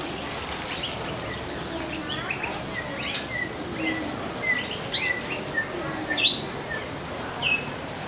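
Birds chirping and calling: sharp downward-sweeping chirps, loudest about three, five and six seconds in, over a run of short repeated whistles.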